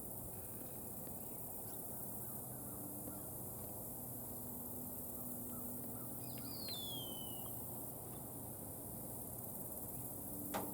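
Sparse, light taps of a juvenile red-bellied woodpecker's bill on a pecan nut, with one sharp tap near the end. About halfway through, a bird gives a single falling call over a steady outdoor background hum.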